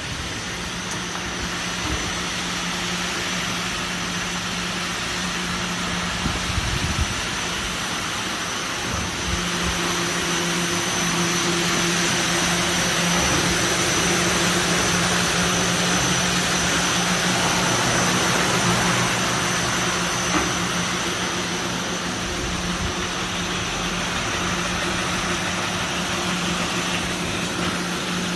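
Industrial brush sanding machine for cabinet doors running: a steady motor hum and a high whine under a wide hiss from the rotating abrasive brushes, growing louder for a stretch in the middle and easing off again.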